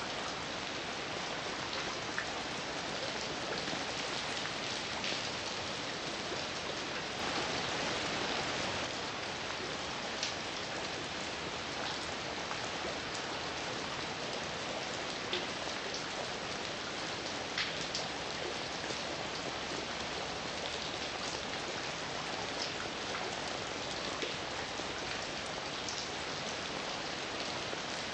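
Heavy rain falling steadily, with scattered sharper drop impacts standing out, and a brief swell in the downpour about seven seconds in.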